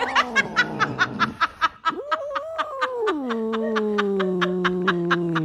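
Snickering laughter: a rapid, even string of short pulses, about ten a second, over a drawn-out voice that drops in pitch a little after three seconds in.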